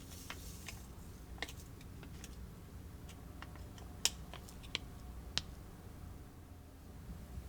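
Light clicks and taps of small plastic kit pieces and utensils being handled, with a few sharper clicks about four to five and a half seconds in, over a faint low hum.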